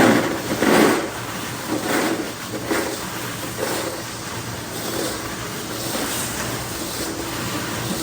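Workshop machinery running steadily with a constant motor hum, with a few louder clattering bursts in the first two seconds.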